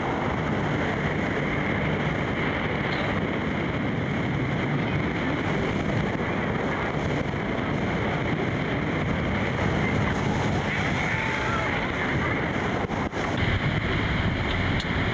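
Steady roar of rushing, falling water at Iguazu Falls, with wind buffeting the microphone.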